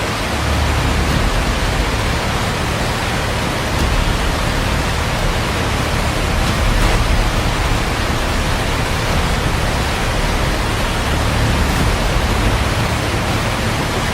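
Heavy rain pouring down: a loud, steady hiss with a low rumble underneath.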